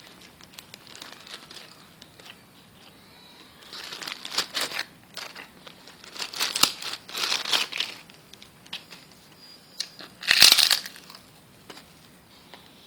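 Crinkling and rustling of packaging being handled, in several irregular bursts, the loudest a little after ten seconds in.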